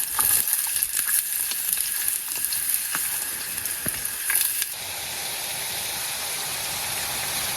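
Finely chopped onions and green chillies sizzling as they fry in hot oil in a pan. Sharp clicks of stirring come through for the first few seconds, then the sizzle settles into a steady hiss.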